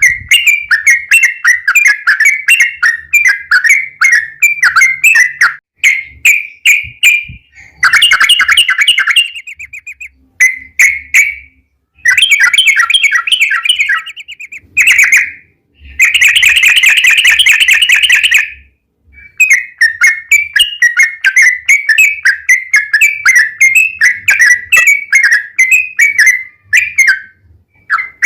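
Yellow-vented bulbul singing a long, rapid run of bubbly chirping notes (the 'ropel' song used to lure other bulbuls into singing). It pauses briefly a few times, with three denser, harsher stretches in the middle.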